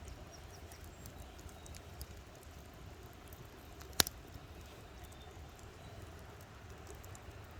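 Campfire burning with a steady low rumble and scattered small crackles, and one loud sharp pop about four seconds in.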